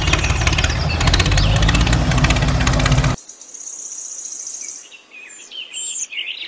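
A loud engine-like rumble with a rapid clatter for about three seconds, cutting off suddenly. Then a high, steady buzz and birds chirping.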